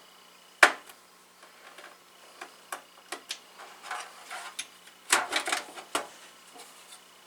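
Small metal and plastic parts of a rack server clicking and clattering as they are handled while an NVMe card is fitted to a PCIe riser: one sharp click early, scattered ticks, then a cluster of clicks and rattles about five seconds in.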